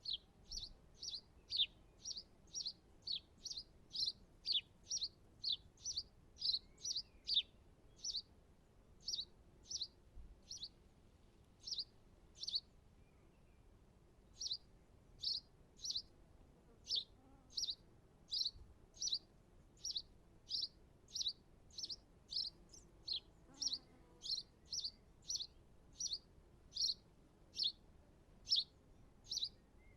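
A small garden bird calling one short, high chirp over and over, about two a second, with a short pause about halfway through.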